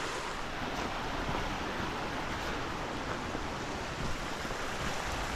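Steady rushing of a mountain creek's flowing water, an even noise that does not change.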